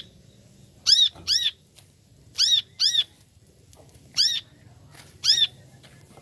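Brown-throated sunbird (kolibri kelapa) calling: short, sharp notes, each rising and falling in pitch, about six in all, some coming in quick pairs with pauses between.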